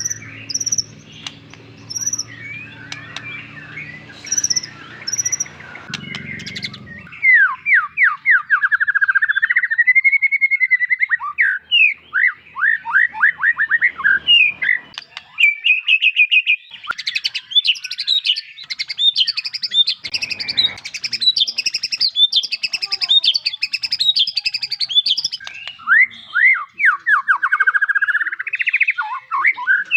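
White-rumped shama singing: a few short high chirps over a low steady hum, then from about seven seconds in a loud, continuous song of rapid sweeping notes and trills, changing phrase every few seconds.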